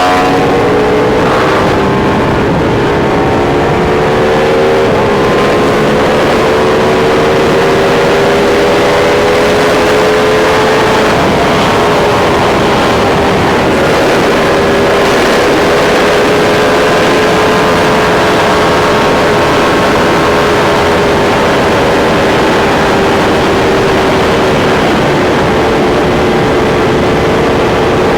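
Sport motorcycle engine running under load at highway speed, its note climbing gently over the first ten seconds and then holding steady, over a constant rushing noise.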